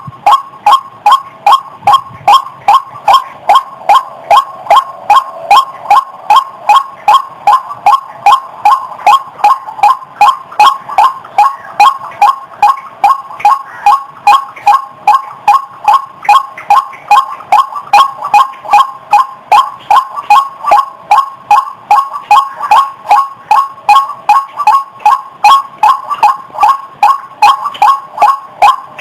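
White-breasted waterhen calling: a rapid, unbroken run of short, harsh repeated notes, about three a second.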